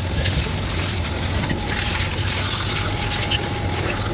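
Steady rushing spray hiss over a low, even hum.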